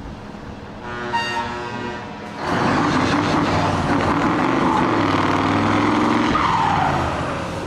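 A drifting vehicle's engine at high revs, with tyres skidding on the tarmac. The sound turns much louder about two and a half seconds in and holds there until near the end.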